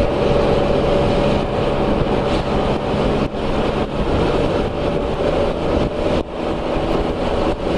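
Can-Am Spyder RT Limited three-wheeler's engine running at a steady cruise, its even hum buried in a heavy wash of wind and rain noise.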